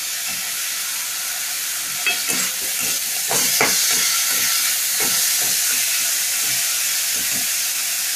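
Chopped carrot, onion and capsicum frying in oil in a pan with a steady sizzle, and a spatula stirring through the vegetables in short strokes from about two seconds in.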